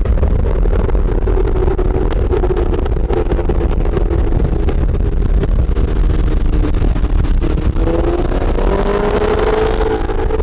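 Car engines running at speed under heavy road and wind rumble, heard from a moving car; about eight seconds in, an engine note climbs steadily as a car accelerates hard.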